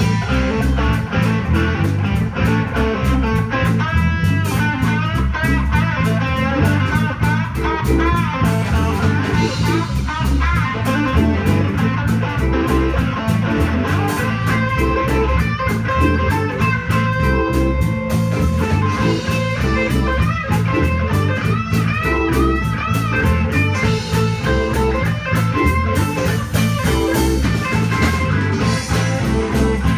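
Blues band playing an instrumental passage: an electric guitar solo with bending notes over a steady bass and drum beat.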